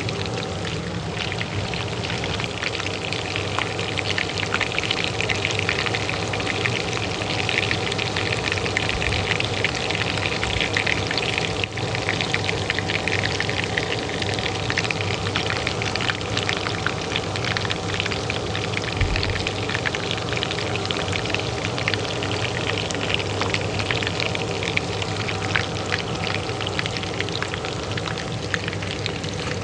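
Hot oil frying with a continuous fine sizzle and crackle, over the steady hum of a kitchen range hood fan running.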